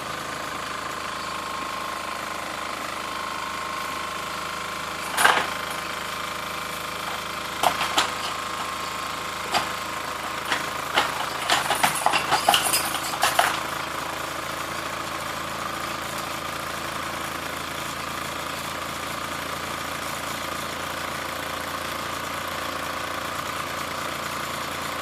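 Mamod TE1A model steam tractor's small steam engine running steadily. Sharp clicks come about five seconds in, and a run of clicks and rattles between about eight and thirteen seconds.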